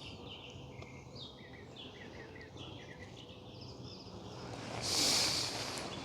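Small birds chirping in quick repeated notes. About five seconds in, a hissing whoosh swells and fades, the loudest sound here.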